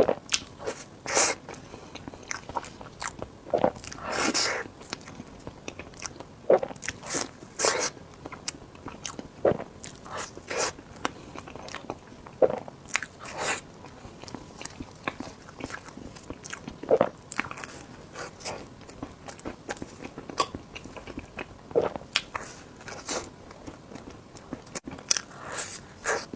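Close-miked mukbang eating sounds: biting and chewing of food, with irregular short mouth clicks and smacks throughout.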